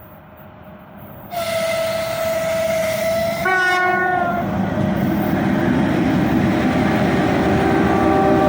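3ES5K 'Ermak' electric locomotive sounding its horn twice: first one steady note lasting about two seconds, then a shorter chord of several notes. The rumble of the approaching freight train then builds and grows louder.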